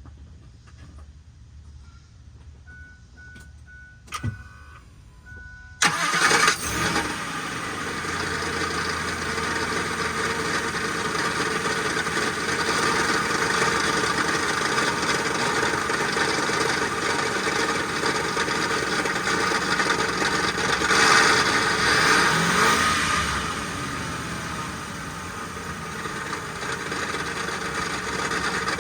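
A click, then an SUV engine starts about six seconds in and runs steadily with a rough metallic grinding. The owner suspects the grinding comes from the flexplate/torque converter area after a transmission rebuild. The engine revs up briefly near two-thirds of the way through.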